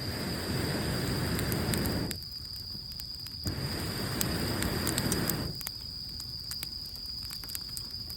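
Campfire of wet wood crackling with scattered sharp pops, interrupted twice by long rushes of air noise of about two seconds each. The fire is burning steadily.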